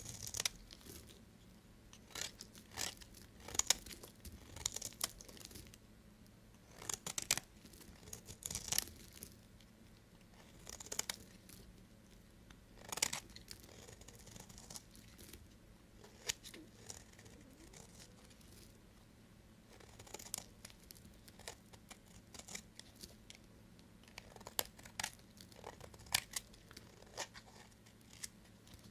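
A knife cutting through bars of soap in a series of short, crisp, crunchy strokes every second or two. There is a quieter stretch about halfway through before the strokes pick up again.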